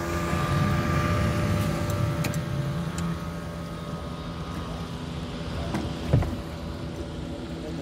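A boat's engine running steadily with a low drone, and one short thump about six seconds in.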